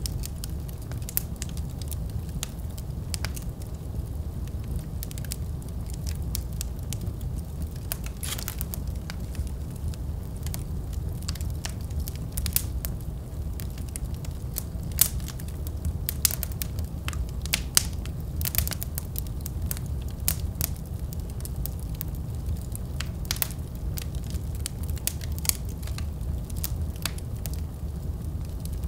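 Wood fire burning in a fireplace: a steady low rumble of flames with many sharp crackles and pops from the logs, thickest in the middle stretch.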